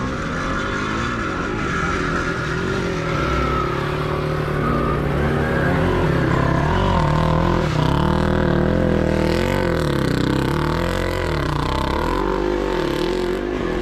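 Several motocross motorcycle engines racing, their revs repeatedly rising and falling as they work the track.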